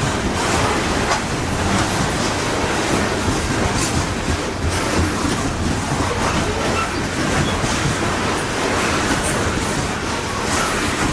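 Canadian Pacific coal train rolling past, a steady rumble of wheels on rail with occasional clicks.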